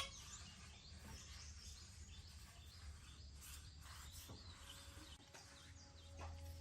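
Near silence: faint background with a few light bird chirps and a low steady hum.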